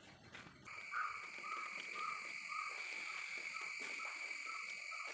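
Frogs calling in an even repeated rhythm, about two to three calls a second, over a steady high-pitched insect drone; both start together about a second in.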